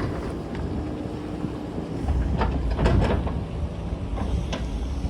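JCB backhoe loader's diesel engine running under load, swelling about two seconds in, with several sharp knocks and scrapes of the bucket working rock.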